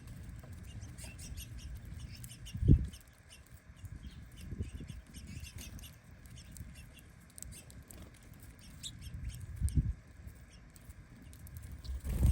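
Birds at a feeder: scattered faint ticks with a few short, soft low thumps, the loudest about three seconds in.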